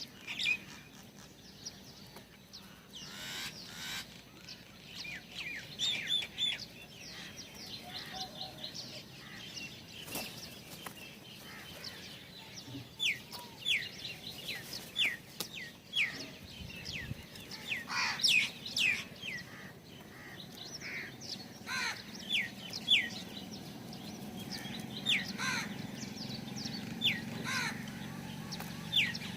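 Small birds chirping, many short falling chirps in quick scattered series, denser in the second half.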